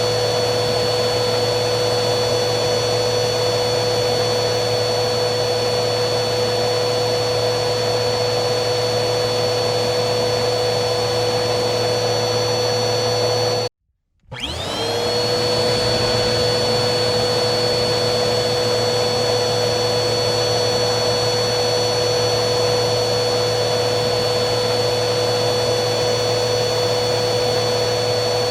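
Vacuum cleaner motor running with a steady hum and whine. About halfway through it cuts out abruptly for half a second, then starts again with a rising whine and settles back to the same steady running.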